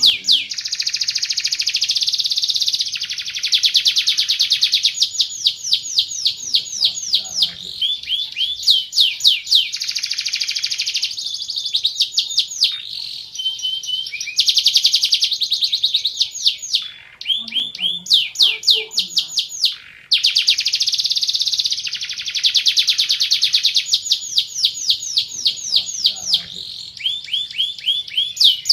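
Van Hesterling song canary singing a long, continuous song of fast trills and rolls: runs of rapidly repeated high, sweeping notes, one run giving way to the next, with a couple of brief pauses.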